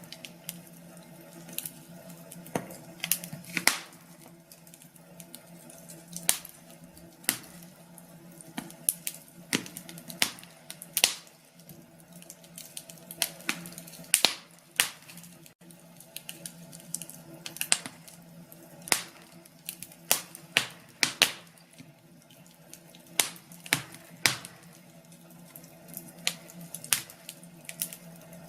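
Wood fire crackling in a fireplace: irregular sharp pops and snaps, one to three a second, over a faint steady hum.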